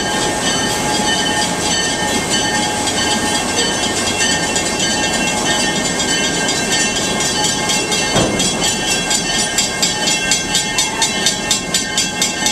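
Steady running noise of a passenger train car rolling on the rails, with one sharp clunk about 8 seconds in. In the last few seconds a grade-crossing warning bell rings rapidly and grows louder as the car reaches the crossing.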